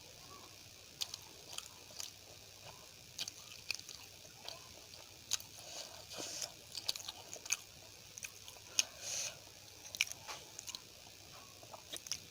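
Close-miked chewing and eating: irregular wet smacks and clicks of a mouth working through soft food such as rice, poori and curry.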